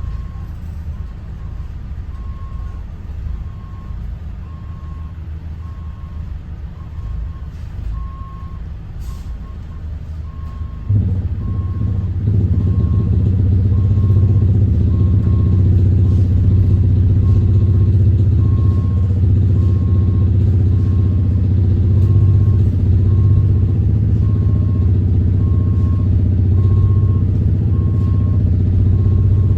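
Thomas Saf-T-Liner C2 school bus backing up: its reverse alarm beeps steadily, about one beep a second, over the idling Detroit diesel engine. About eleven seconds in, the engine comes up to a louder, steady running note as it is put under throttle.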